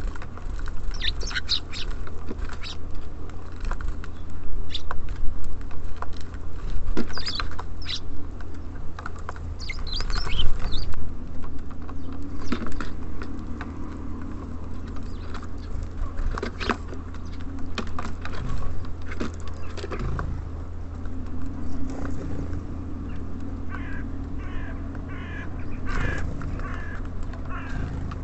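Small songbirds chirping and calling, with sharp clicks scattered among the calls, over a steady low hum. A run of quick repeated calls comes near the end.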